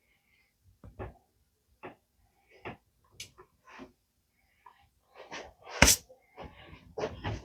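A series of short knocks and taps, spaced about a second apart at first, then coming quicker and louder over the last couple of seconds, with one sharp strike standing out near the end.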